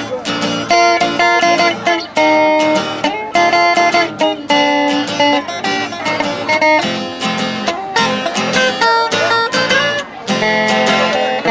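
Acoustic guitar picking and strumming an instrumental passage of a caipira song, with no singing.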